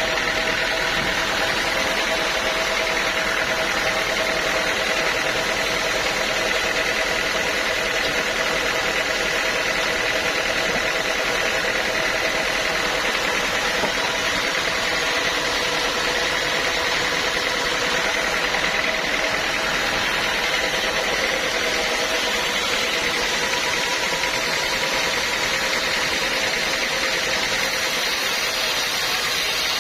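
Band sawmill running steadily, a constant machine noise with a steady whine held through it.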